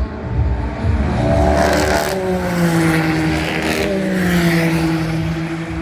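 GT race car engine at speed passing by, its note dropping in pitch as it goes past, with a further engine note carrying on near the end.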